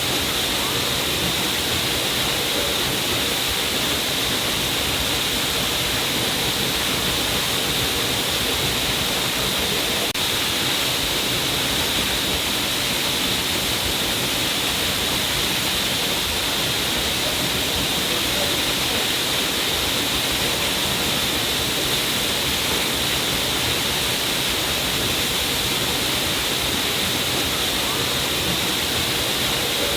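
A stream of water pouring down a cliff: a steady, unbroken rushing with a bright hiss on top.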